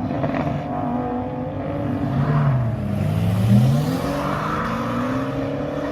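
An engine running, its note dipping and then rising again about halfway through.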